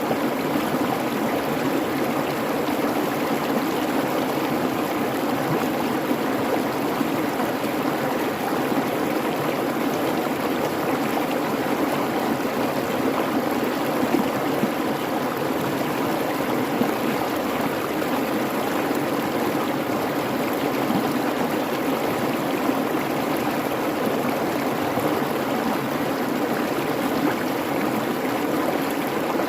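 Creek water babbling steadily, an even, unbroken rush.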